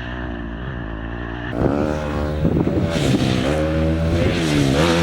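Pit bike engine running steadily, then revved up and down several times, louder, from about a second and a half in.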